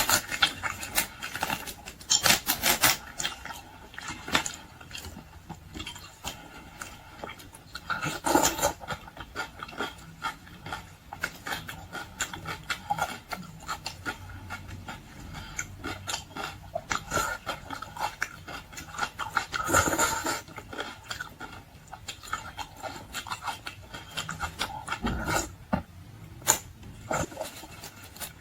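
Close-up sounds of someone eating boiled seafood: wet chewing and mouth sounds with many quick clicks and crackles, in denser flurries now and then.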